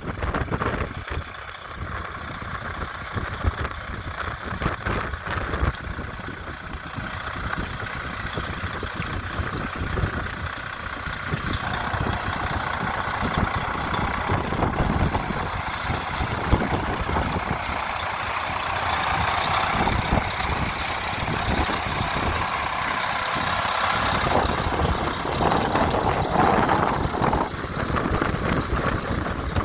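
Heavy truck engine running, with wind buffeting the microphone.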